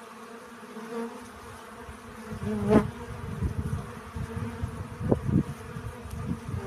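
Bees buzzing while foraging on flowers for pollen, a steady hum with one bee buzzing loudly close by a little under three seconds in. A low uneven rumble sits underneath from about two seconds in.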